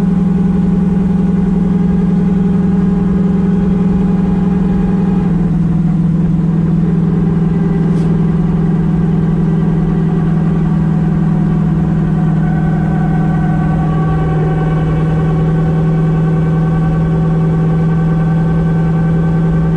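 Turbocharged car engine droning steadily inside the cabin at part-throttle cruise, with the manifold still in vacuum and not on boost. The pitch steps down slightly twice, about five seconds in and again near fourteen seconds.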